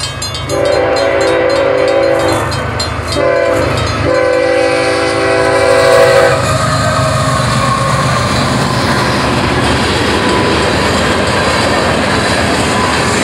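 Canadian Pacific freight locomotive's horn sounding two long blasts, the second the longer and ending about six seconds in, over the rapid ringing of the level-crossing bell. Then the steady noise and wheel clatter of the freight cars rolling through the crossing.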